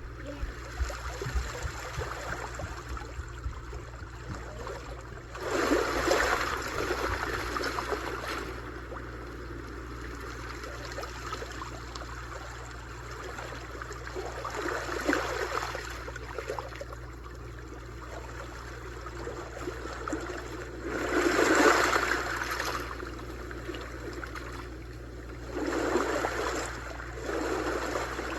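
Small sea waves washing onto the shore, swelling and falling back four times, over a steady low rumble.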